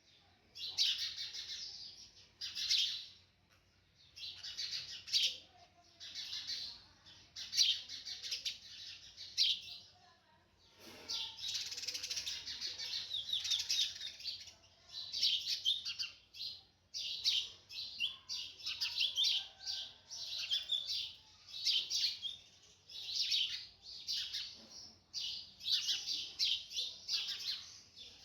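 Sunbird calling in high, rapid twittering phrases of about a second each, repeated with short gaps, and running into a longer unbroken stretch of twittering midway.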